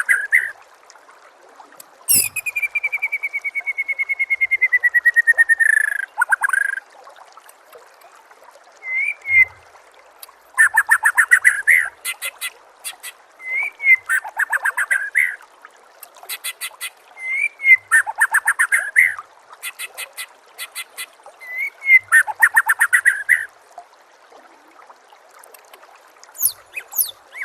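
White-rumped shama (murai batu) singing. About two seconds in comes a long whistled trill that slurs slowly downward. It is followed by a phrase repeated four times about four seconds apart: a short upslurred note, then a fast rattling run of notes.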